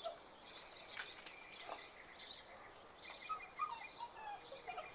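Faint outdoor ambience with small birds chirping repeatedly, and a few faint high whimpers from puppies in the second half.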